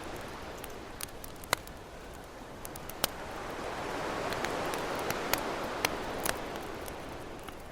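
Campfire crackling, with scattered sharp pops, the strongest a little over a second in and at about three seconds, over the wash of ocean waves; one wave swells up in the middle and then falls away.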